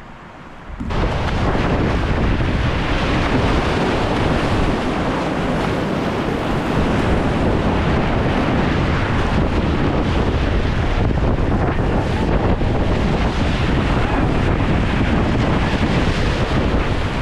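Loud, steady rush of river whitewater with wind buffeting the microphone, cutting in abruptly about a second in.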